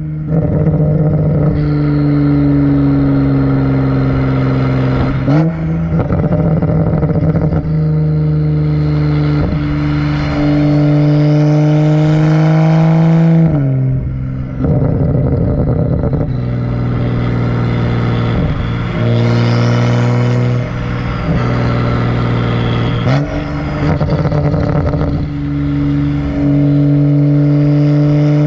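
Exhaust of a BMW 135i's turbocharged N55 straight-six running with no catalytic converter and no muffler, a loud steady drone while the car is driven. The engine note holds for several seconds at a time, then falls away and comes back at a different pitch several times.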